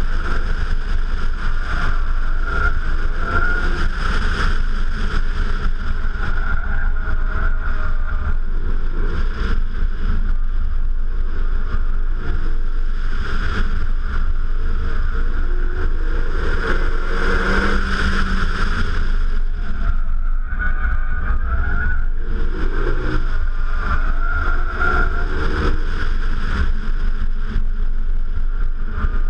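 Renault Mégane RS 265 Trophy's turbocharged 2.0-litre four-cylinder engine driven hard, its pitch rising and falling again and again as the revs climb and drop. A heavy low wind rumble on the externally mounted microphone runs underneath.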